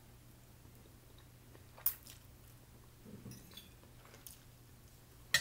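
A person chewing a mouthful of rice noodles with her mouth near the microphone, with a few sharp, brief clicks from the mouth, the loudest near the end.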